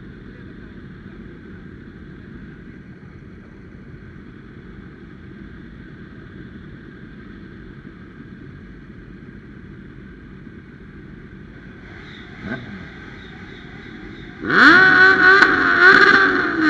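Steady engine and road drone, then about fourteen seconds in a motorcycle engine revs up loudly for about two seconds, its pitch falling away at the end.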